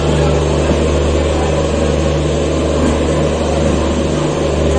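Steady running noise of a moving passenger express train heard from inside the coach, with a constant low drone under it.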